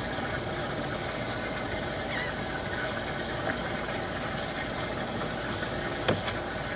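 An engine running steadily at a constant pace, with one short knock about six seconds in.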